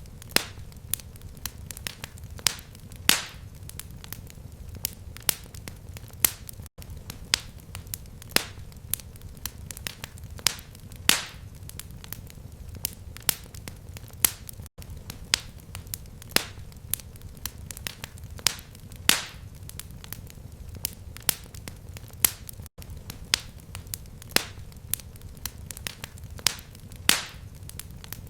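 Fireplace fire crackling: irregular sharp pops and snaps, several a second, some louder, over a steady low rumble of the flames. There is a momentary gap in the sound about every eight seconds.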